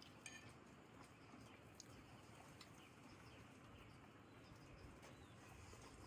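Near silence: faint steady background hiss with a few soft clicks.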